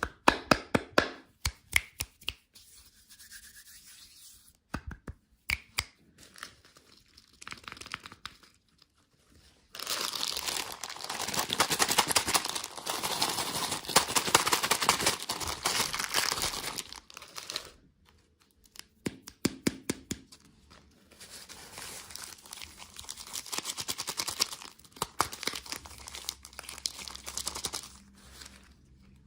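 Packaging being handled and opened: scattered sharp clicks and taps, then two long stretches of dense crinkling and tearing.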